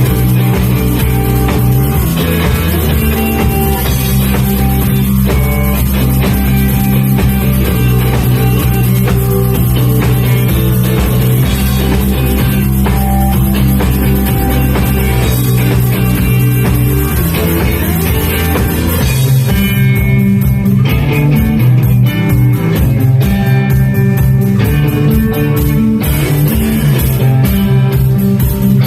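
Math rock band playing: guitars over bass and drum kit. About twenty seconds in, the sustained low bass notes drop out and the part turns choppier, with clipped guitar notes and separate drum hits.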